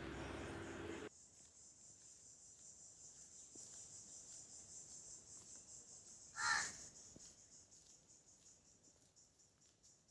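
Faint, steady high-pitched chirring of crickets, with a low hum in the first second and one short animal call about six and a half seconds in.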